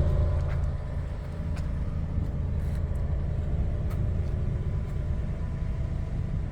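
2022 Toyota Tundra's 3.5-litre twin-turbo V6 idling, a steady low exhaust rumble that drops in level over the first second and then holds steady, with a few faint clicks.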